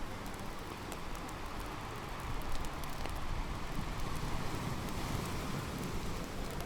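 Surf washing onto a beach, swelling for a few seconds in the middle and easing off, with a wood bonfire crackling now and then.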